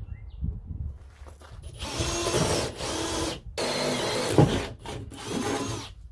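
Power drill spinning a hole saw into a plywood drawer front, running in two bursts of a second or two and then a shorter one.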